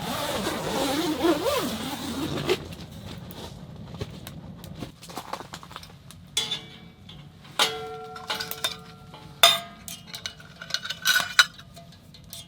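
A short rushing noise, then a string of metal clinks and knocks, several ringing briefly, as pots, utensils or stove parts are handled.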